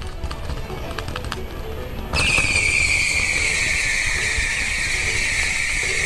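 Fireworks crackling in quick sharp pops. About two seconds in, a loud shrill whistle starts suddenly and slides slowly lower in pitch as it holds.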